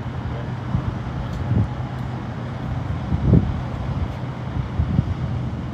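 Street traffic noise: a vehicle engine running with a steady low hum, and uneven low rumbles, the strongest about three seconds in.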